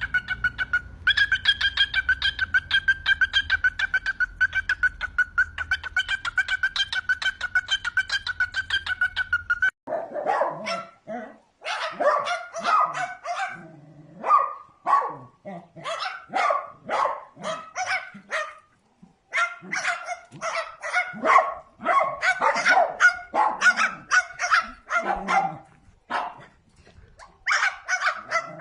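A steady, high, rapidly pulsing whistle-like trill for about ten seconds, which breaks off abruptly. It is followed by quick runs of short, dog-like barks.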